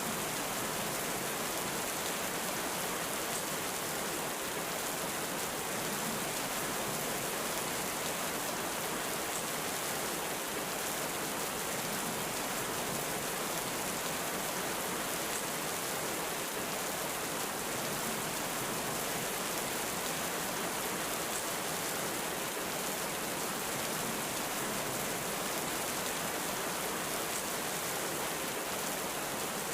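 Heavy rain falling steadily in an even, unbroken hiss, with no thunder.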